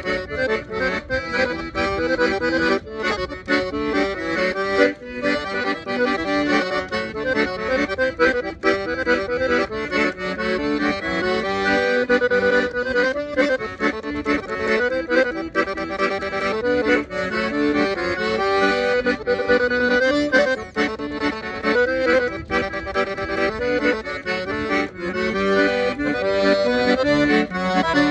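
Solo accordion (sanfona) playing a São João festa junina tune, a moving melody over chords with a steady rhythm.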